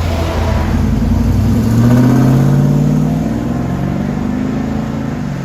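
1994 Chevy Silverado 1500's 5.7-litre V8 through true dual exhaust with an X-pipe and Borla Pro XS mufflers, accelerating: the exhaust note climbs in pitch and loudness for about two seconds, then eases off and settles.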